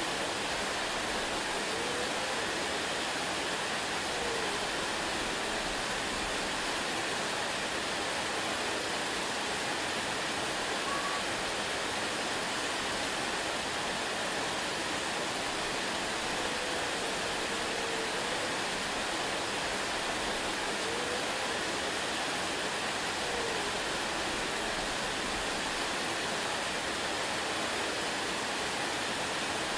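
Waterfall rushing steadily, a constant even roar of falling water. A few faint short whistle-like notes rise and fall now and then.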